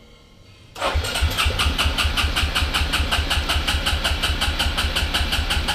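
ATV engine catching about a second in and then idling with an even, rapid beat. It is a cold start made without the choke on.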